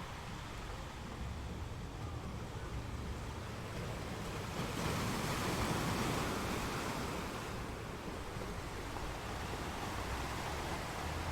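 Sea waves breaking on rocks: a steady wash of surf, with one wave swelling louder about halfway through and fading over a few seconds, over a low rumble.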